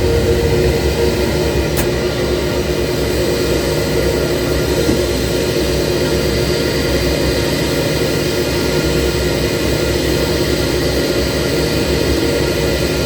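Airbus A321-231's IAE V2500 jet engines running steadily: a constant rushing noise with several steady whining tones over it.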